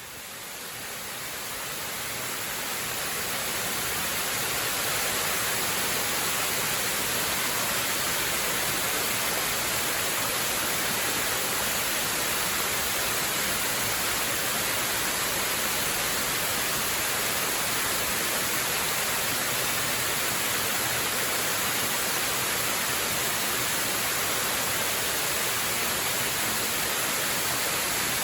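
Steady rushing of a waterfall, fading in over the first few seconds and then holding an even level.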